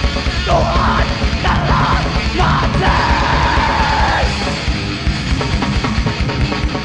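Live metal band playing loud distorted music over fast drumming, with harsh yelled vocals for about the first four seconds, then the instruments alone.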